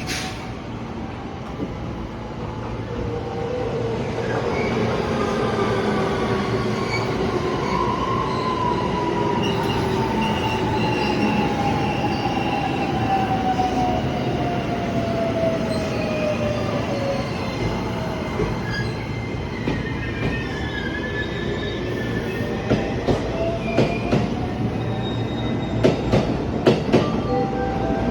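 Electric train running on the rails, with a whine that falls slowly in pitch through the middle, as when the train slows. Rapid wheel clicks over rail joints come near the end.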